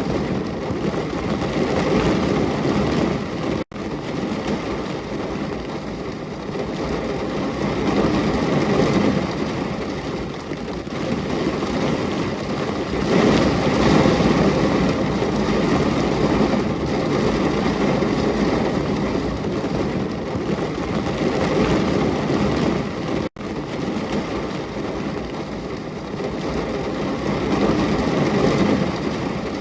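Steady heavy rain, a dense even hiss and patter that cuts out for an instant twice, where the looped recording is joined.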